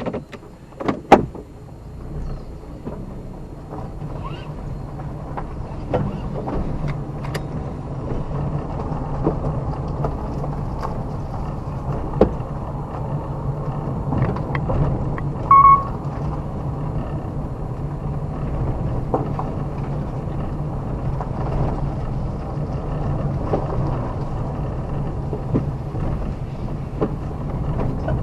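A car's engine hum builds up after a few knocks and then runs steadily as the car drives along, with scattered light knocks and rattles and a short beep about fifteen seconds in.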